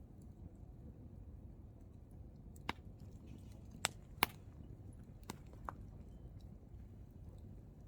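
Hardwood campfire burning, the logs crackling with about five sharp pops and snaps, the loudest a little past the middle, over a low steady rumble of the fire.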